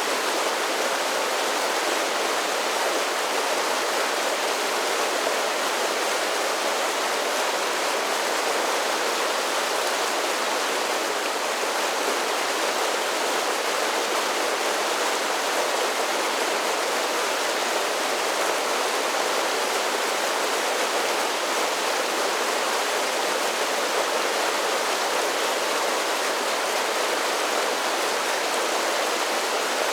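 Mountain creek cascading down a series of small falls: a steady, even rush of water with no breaks.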